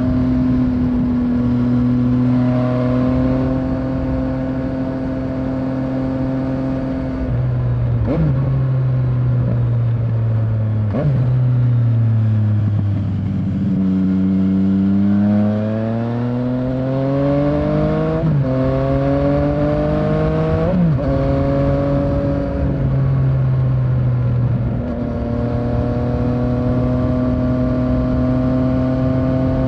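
Yamaha Tracer 900's three-cylinder engine under way: it holds a steady cruising note, slows with the revs falling, then accelerates with the pitch climbing through two gear changes, and settles back to a steady cruise.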